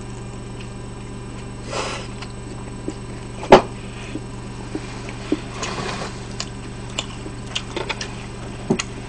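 Close-up chewing of a bite of pizza, with small mouth clicks and two short noisy bursts, over a steady electrical hum. One sharp click about three and a half seconds in is the loudest sound.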